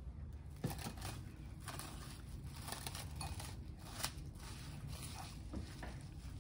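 Plastic cling wrap crinkling and crackling as it is stretched and pressed over a glass bowl, in a run of irregular rustles with a few sharp crackles, the sharpest about a second in and about four seconds in.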